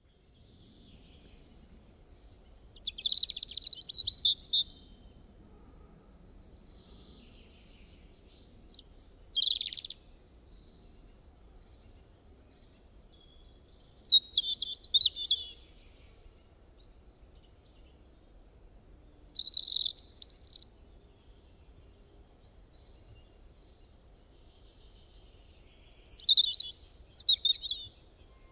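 Birds chirping in short, high phrases: five bursts of song a few seconds apart over a faint, quiet background.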